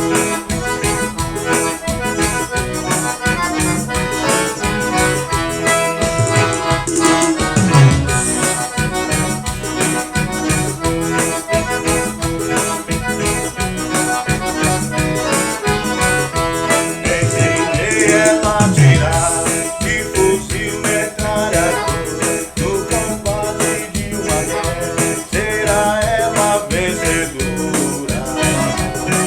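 Forró band playing an instrumental passage led by an accordion, with a shaker and other percussion keeping a steady, fast beat.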